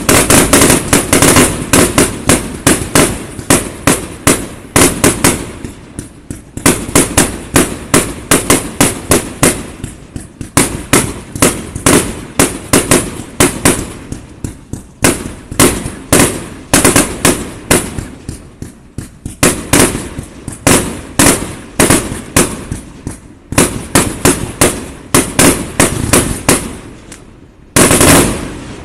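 Aerial fireworks firing in rapid succession, a string of sharp bangs several a second in volleys with short lulls between. One last, loudest volley comes near the end, then the bangs stop and the echo fades.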